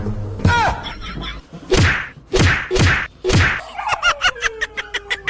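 Four loud comic slap sound effects in quick succession, after a short falling cry. Near the end, a rapid run of short clucking chirps, about four to five a second.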